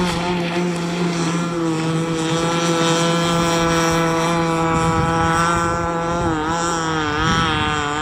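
Small two-stroke gas engine of an RC catamaran speedboat running through its tuned pipe, a steady high drone that wavers and dips in pitch a couple of times near the end as the throttle changes. The engine is still being broken in on its first tank and is running rich and untuned.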